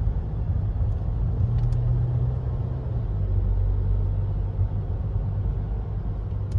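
Car driving, heard from inside the cabin: a steady low engine and road rumble, with a hum that drops in pitch about three seconds in.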